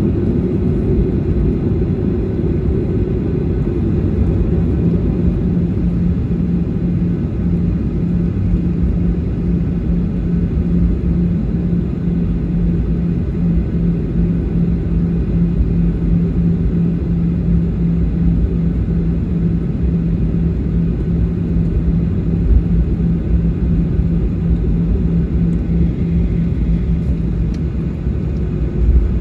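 Steady low rumble inside the cabin of a Boeing 737-800 taxiing, its CFM56-7B engines at low taxi power. A steady low hum joins about four seconds in and fades near the end.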